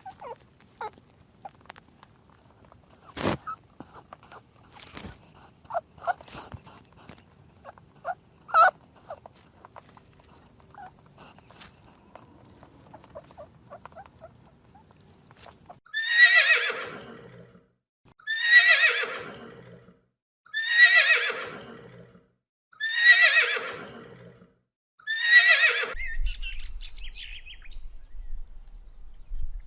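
Horse neighing five times in the second half, about two seconds apart, each a long whinny that falls in pitch. Before that there are only scattered light clicks and knocks.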